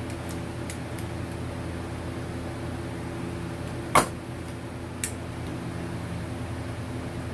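Steady low mechanical hum, like a small electric motor or fan running, with a few light clicks. A sharp click or knock about four seconds in is the loudest sound, and a smaller click follows a second later.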